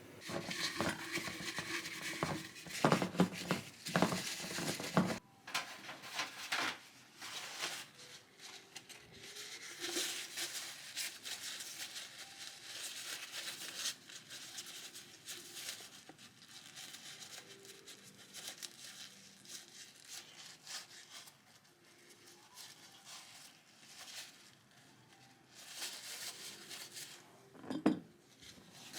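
Kitchen handling sounds while making ume plum syrup: dense clatter and rustling in the first five seconds, then sparser light knocks and rustles, with one sharp knock near the end.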